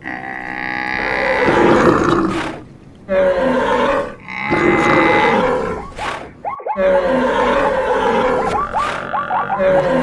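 Stampede sound effect of mixed animal calls and roars, one call after another with short gaps, with a few quick high squeaky calls near the middle and again near the end.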